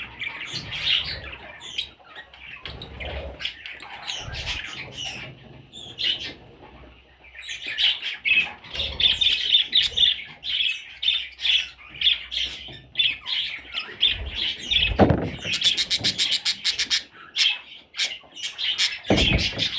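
Budgerigar chicks chirping and squawking continuously in busy, overlapping high calls. Partway through, a fast run of clicking chirps briefly stands out.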